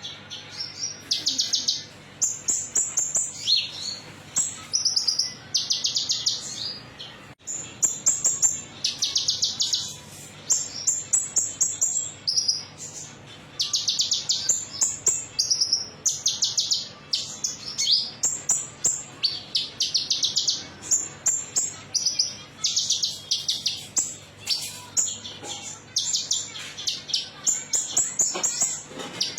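Konin songbird singing a long run of quick, high, trilling and chirping phrases, each about a second long, following one another with short pauses, over a faint steady hum.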